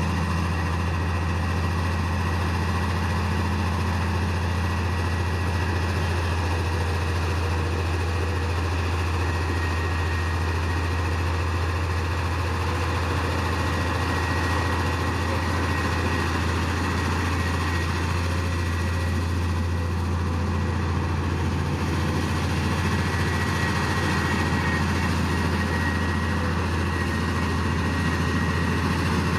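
Heavy diesel engine of earthmoving machinery running steadily, with a deep, even drone and a faint high whine over it.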